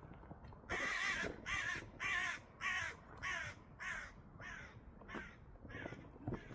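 A crow cawing in a quick series of about ten harsh caws, roughly two a second, getting fainter toward the end.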